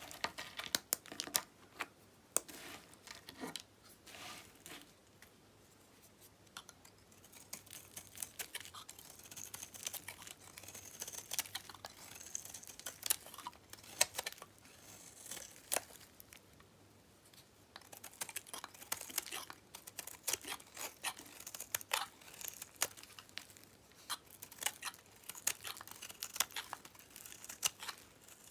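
Dyed bar soap being cut, crackling and snapping crisply as the dried soap breaks and crumbles, with two short lulls.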